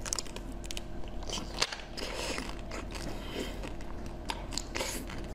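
Close-miked biting and chewing of a hard frozen chocolate ice bar: a run of sharp, irregular crunches and cracks.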